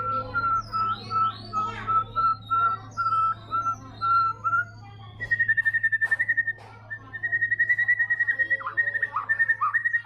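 White-rumped shama singing: a run of whistled notes repeated on one pitch, then from about halfway a rapid trill of about ten notes a second on a higher pitch, broken by a few quick falling notes near the end.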